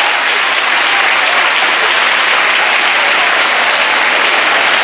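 A large audience clapping steadily: sustained applause for an award announcement.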